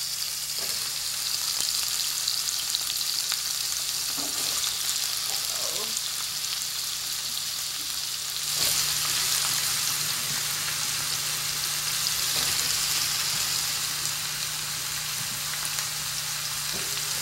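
Bell pepper pieces and mushrooms sizzling in hot olive oil in a frying pan, a steady hiss that grows louder about halfway through.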